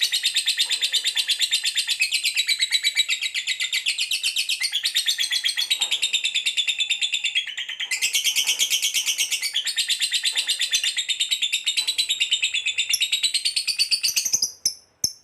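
Small birds chirping in a fast, even run of high calls, dipping briefly about eight seconds in and stopping just before the end.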